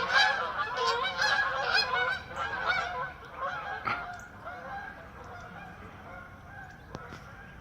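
A flock of geese honking, many calls overlapping, thinning out and fading after about three seconds.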